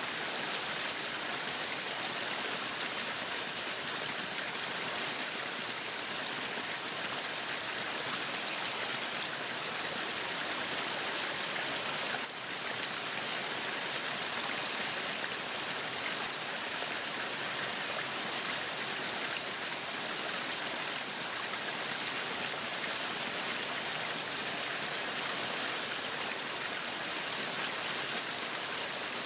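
Meat sizzling on a yakiniku grill: a steady, even sizzle with a brief dip about twelve seconds in.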